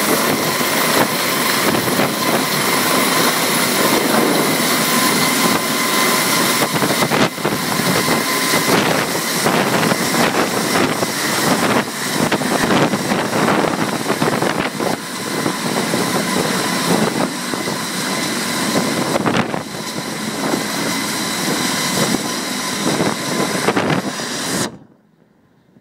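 Helicopter running loud and close, a steady rush of rotor and turbine noise with a high whine over it, cutting off suddenly near the end.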